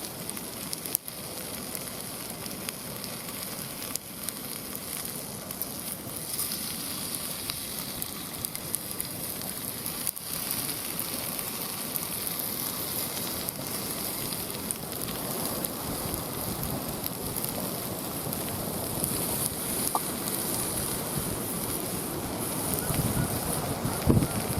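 Wood campfire burning, with a steady crackle of many small pops and an occasional louder knock.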